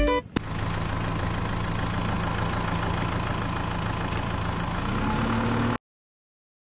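Engine idling steadily, with a slight rise in pitch near the end, then cutting off abruptly.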